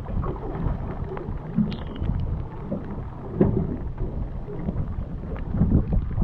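Wind rumbling on the microphone aboard a fishing boat at sea, with water noise and irregular thumps.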